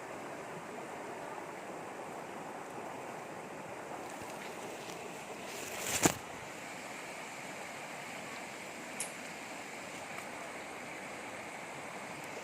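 River water flowing steadily, with one sharp loud knock or splash about halfway through and a faint click a few seconds later.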